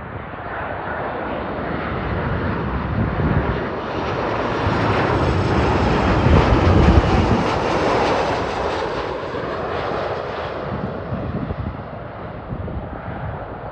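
Boeing 737-800 jet airliner on landing approach passing overhead, its CFM56 turbofan engines a broad roar that builds, is loudest about halfway through, then fades as it goes past.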